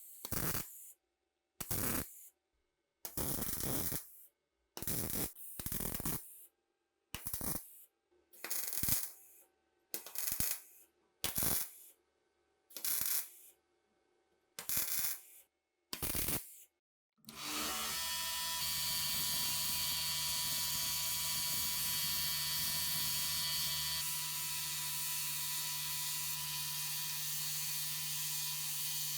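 A series of about a dozen short, noisy bursts of tool work on rifle parts, each cut off sharply. About 17 seconds in, an electric power tool starts and runs steadily, its tone shifting slightly around 24 seconds.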